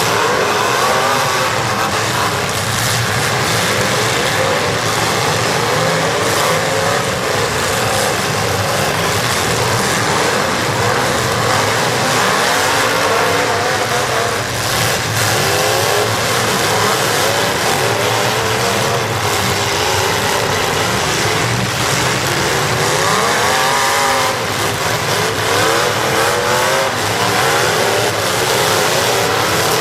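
Several demolition derby cars' engines revving at once, their pitches rising and falling over one another without a break.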